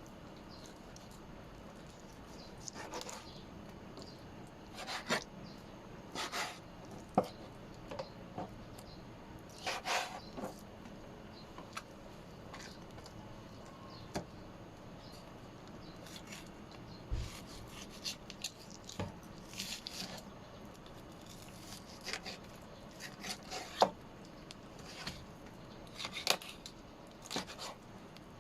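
Kitchen food-preparation sounds: irregular knocks, taps and scrapes of utensils and food being handled, with a few sharp clicks.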